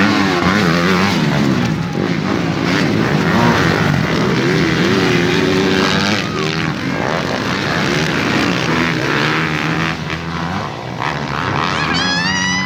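Several motocross bikes racing, engines revving up and down through the gears, with overlapping engine notes rising and falling as riders pass. Near the end one engine comes through strongly, its note climbing and then dropping.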